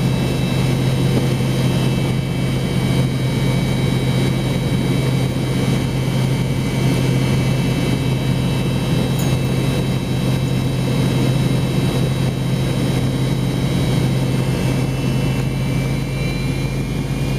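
Steady drone of the MD-88's rear-mounted Pratt & Whitney JT8D turbofan engines running at idle, heard from inside the rear cabin. It is a constant low hum with several thin, high whines over it.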